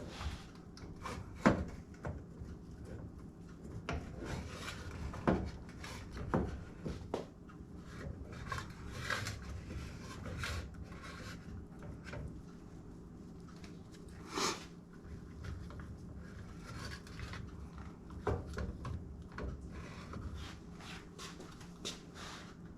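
Cloth rubbing on glass canning jars as their rims are wiped with vinegar, with scattered clicks and knocks of the jars being handled; the sharpest knock comes about a second and a half in. A faint steady hum runs underneath.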